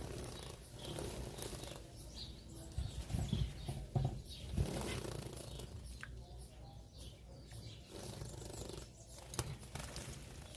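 Small cage birds bathing: irregular flurries of wing-fluttering and splashing in water, with a few chirps.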